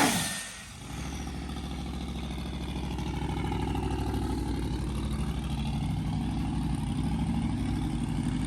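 A loud sound dies away in the first half second. Then, from about a second in, a vehicle engine idles steadily, growing slightly louder.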